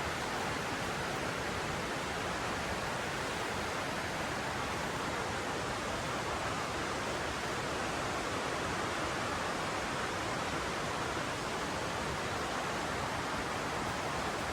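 Mountain river flowing, a steady, even rush of water with no breaks.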